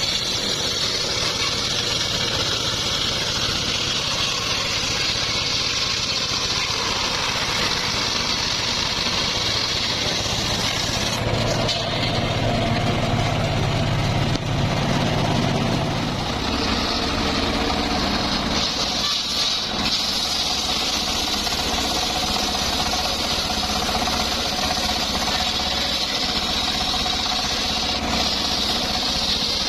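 Engine-driven homemade circular sawmill running steadily, an engine drone under a hiss of the spinning saw. Its sound shifts between about eleven and sixteen seconds in, with a brief dip a few seconds later.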